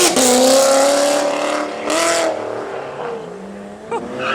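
A performance car's engine accelerating hard away, upshifting at the start and again about two seconds in, then fading as it drives off.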